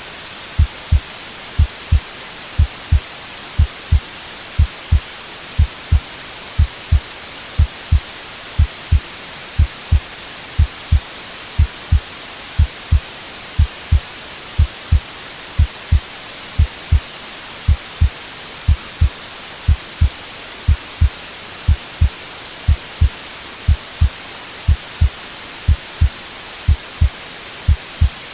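Heartbeat sound, a double low thump (lub-dub) about once a second in an even rhythm, over steady white noise hiss.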